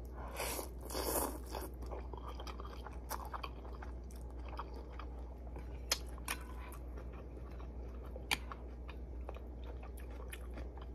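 Close mouth sounds of a person eating ramen: chewing, with a louder noisy stretch in the first second or two and scattered sharp clicks after, over a steady low hum.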